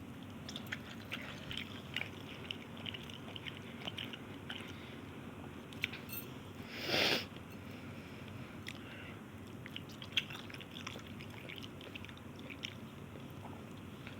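A person chewing Maggi instant noodles close to the microphone, with many small wet clicks of the mouth. About seven seconds in there is one brief, louder rush of noise.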